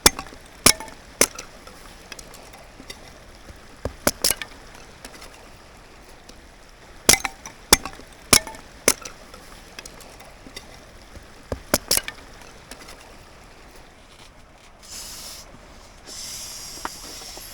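An axe splitting very dry, dead firewood into kindling: about ten sharp knocks, some in quick pairs, spread over the first twelve seconds. About fifteen seconds in, a steady hiss of air starts, stops briefly, and then runs on.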